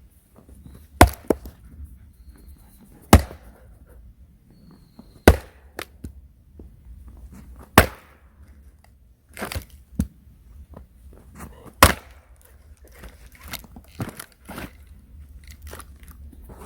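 Heavy blows striking wood: five loud, sharp strikes about two to two and a half seconds apart, with lighter knocks and clatter between them.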